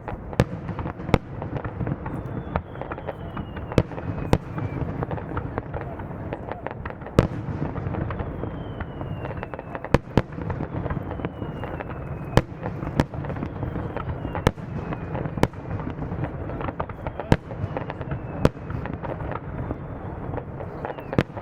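Fireworks display: sharp shell bursts every second or two, a cluster of crackling about five seconds in, and thin whistles falling in pitch, over a steady murmur of the crowd.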